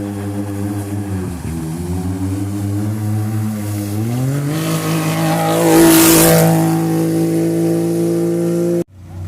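Race car engine running hard: its pitch dips briefly, then climbs as it accelerates and holds high, with a loud rush of noise about six seconds in as it comes close. The sound cuts off abruptly near the end.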